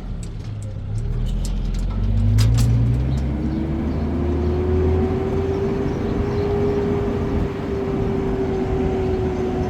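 An engine running under load, its pitch rising over the first few seconds, then holding steady and easing slightly near the end, over a low rumble. A few light ticks come in the first three seconds.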